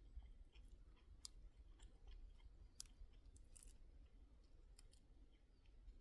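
Near silence: a faint low rumble with scattered soft clicks and crackles, about a dozen over a few seconds.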